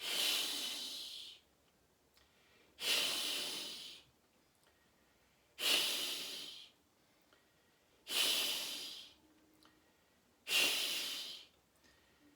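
A man's forceful whispered 'hee' exhalations, the QiGong triple warmer healing sound, five times, one about every two and a half seconds. Each is a breathy hiss that starts strongly and fades over about a second, with no voiced tone.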